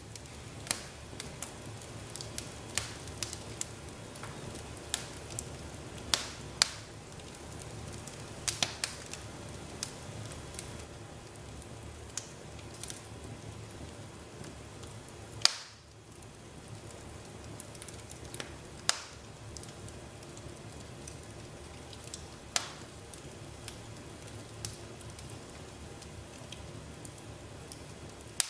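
Wood fire crackling in a fireplace: irregular sharp pops and snaps over a steady low hiss, a few pops much louder than the rest.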